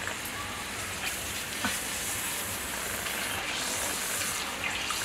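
Potato papad frying in hot refined oil in a kadhai: a steady sizzle, with a faint tick or two about a second in.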